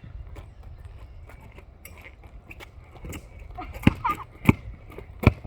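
A basketball bouncing hard on pavement: three sharp thuds in the last two seconds, unevenly spaced.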